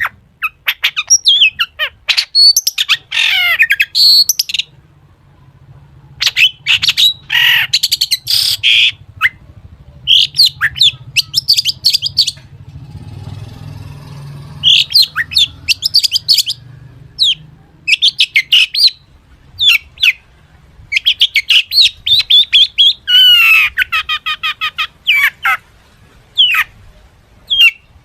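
Long-tailed shrike (cendet) singing loudly in rapid bursts of chirps, harsh notes and fast trills, its song full of copied calls of other birds, with a short pause about halfway through.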